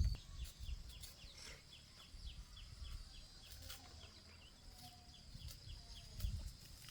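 Faint outdoor rural ambience: a steady high-pitched drone with a run of short chirps repeating about three times a second, over low background rumble and a few faint knocks.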